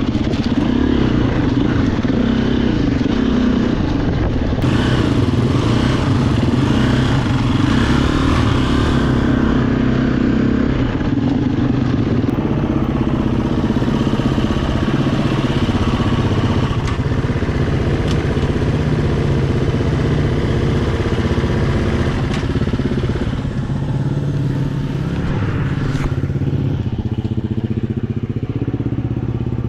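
Husqvarna FE 350 enduro dirt bike's single-cylinder four-stroke engine being ridden, its revs rising and falling with the throttle.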